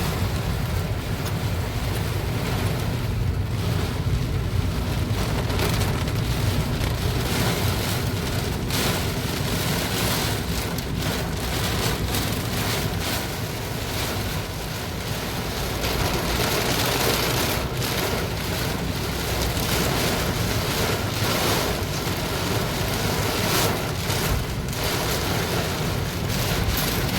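Heavy rain pouring down steadily in strong wind, with wind rumbling on the microphone.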